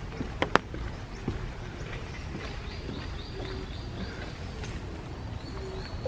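Forest birds calling: one repeats a short high note about three times a second for a couple of seconds, and a dove coos low now and then. Two sharp knocks come about half a second in, over a steady low rumble.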